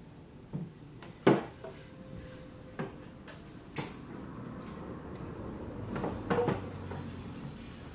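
Pine boards of a beehive box knocking against each other as they are handled. There are several separate wooden knocks, the loudest about a second in, then a short cluster of knocks around six seconds in.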